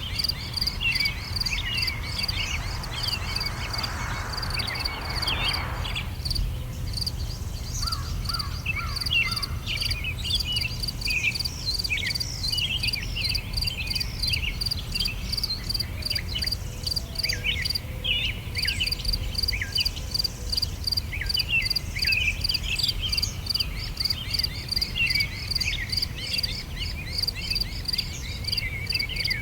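Summer outdoor ambience: insects chirping in a fast, steady pulse while small birds twitter and chirp. There is a steady low rumble underneath, and a soft rushing swell in the first few seconds stops about six seconds in.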